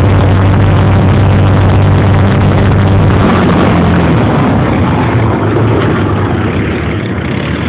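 Quad bike engines running steadily, with the engine pitch shifting a little.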